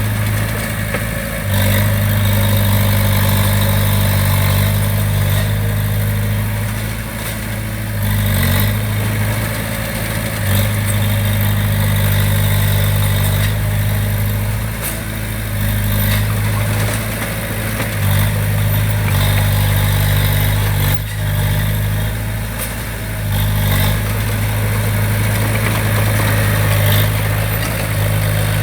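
Heavy-equipment diesel engine running under changing load, its low hum shifting level several times, with a few brief clanks.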